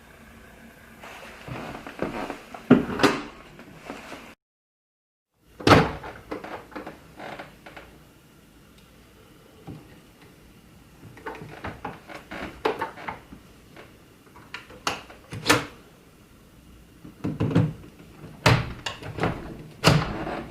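Irregular knocks, clunks and clicks of hard objects being handled, with a second of dead silence about four seconds in.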